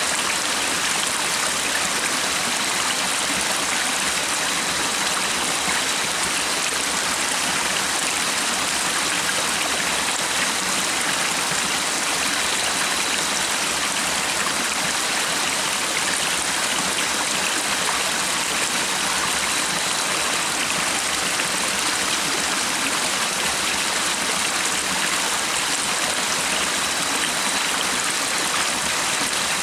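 Stream of running water, a steady, unbroken rush.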